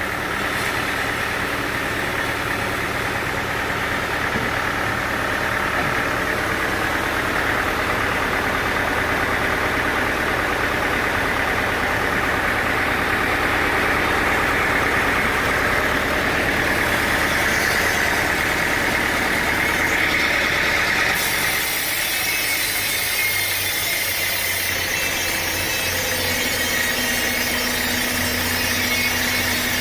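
Sawmill machinery running steadily. About two-thirds of the way through the tone changes abruptly, losing its low rumble and gaining more high hiss.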